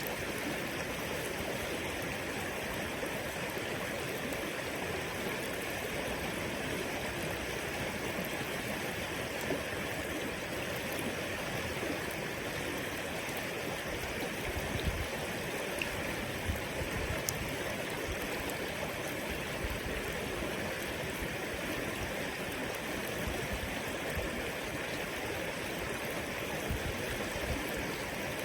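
River water flowing in a steady rush, with a few soft low thumps around the middle and near the end.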